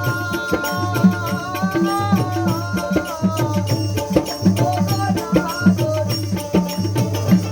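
Folk music: a gliding melody line over a steady, repeating hand-drum rhythm.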